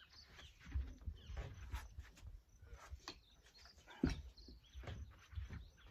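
Irregular knocks, scrapes and creaks of old wooden side panels being worked loose and pulled out of a boat, with one sharp knock about four seconds in.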